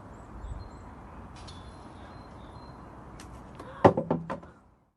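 Steady outdoor air hiss with a few faint bird chirps. About four seconds in comes a quick cluster of sharp knocks, like a hand-held camera being handled, and then the sound cuts off.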